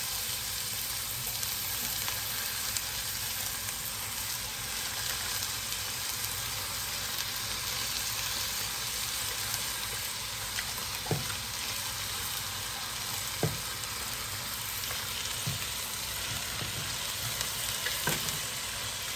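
Chopped cabbage sizzling in a hot soup pot as it starts to wilt: a steady frying hiss, with a few light knocks, likely from a utensil, in the second half.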